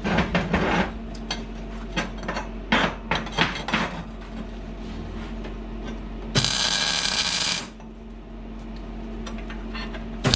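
Steel flat bar being knocked and clanked into position, a series of sharp metallic knocks, then a MIG welder tacking a joint for just over a second with a dense, even hiss of arc noise, over a steady low hum.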